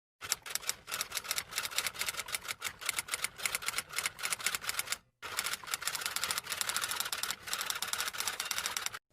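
Typewriter typing sound effect: rapid, irregular clacking of key strikes in two runs, broken by a short pause about five seconds in.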